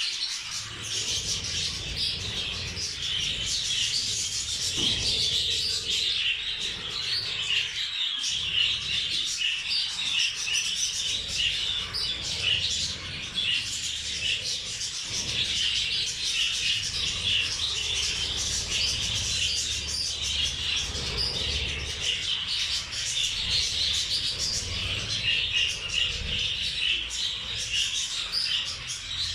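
A flock of caged budgerigars and zebra finches chirping and chattering without a break.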